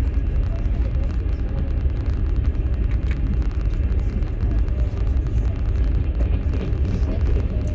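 Steady low rumble of a moving passenger train, heard from inside a platzkart sleeper carriage.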